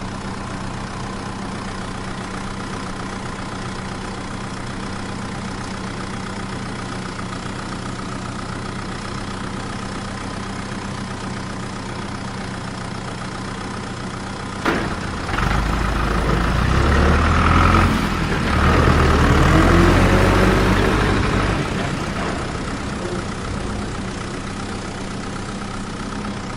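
A small motor running steadily with a humming tone. About fifteen seconds in there is a click, then it grows louder and rumbles with a wavering pitch for several seconds before settling back to its steady hum.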